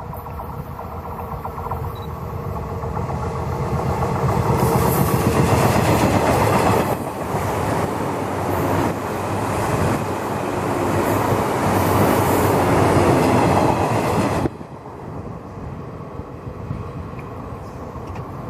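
183 series electric multiple unit train passing close by, growing louder over the first few seconds. The sound drops sharply about fourteen seconds in, leaving a fainter running noise.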